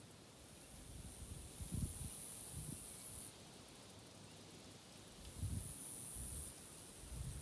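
Insects buzzing in high-pitched bursts of one to two seconds, starting and stopping abruptly, three times. Low gusts of wind bump on the microphone now and then.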